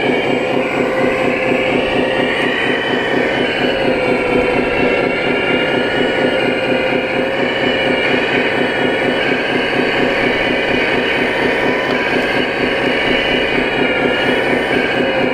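Radio-controlled scale construction machines running: a steady mechanical rumble with a whine whose pitch wavers up and down as the motors are worked.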